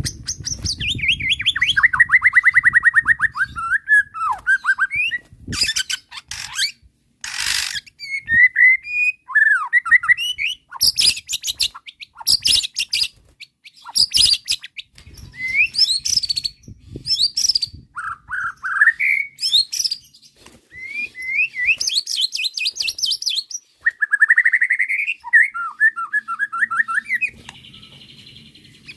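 White-rumped shama (murai batu) in agitated full song, running through a long varied repertoire: rapid repeated trilled notes, whistled glides up and down, and several harsh rasping bursts between phrases.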